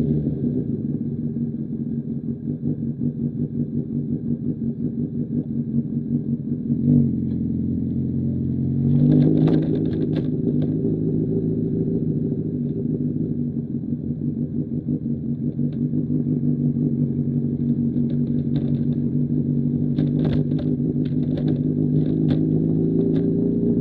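Honda CBR1000RR inline-four engine breathing through an SC Project CR-T aftermarket exhaust, running at a fairly steady engine speed with a pulsing note. The revs lift briefly about seven seconds in and rise more clearly about nine seconds in, then hold steady again. A few sharp ticks are scattered through the middle and near the end.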